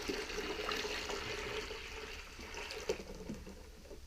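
Water rushing and splashing through a Storch Tornado paint-roller cleaner as it washes paint from a roller; the sound slowly fades toward the end.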